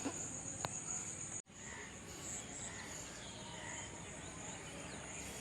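Steady, high-pitched chirring of insects such as crickets, with a brief dropout in the sound about one and a half seconds in.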